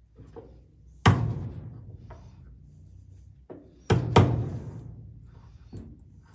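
Chisel being struck to cut into an MDF knob blank: three heavy knocks, one about a second in and a quick pair near the middle, each ringing out briefly, with a few lighter knocks between.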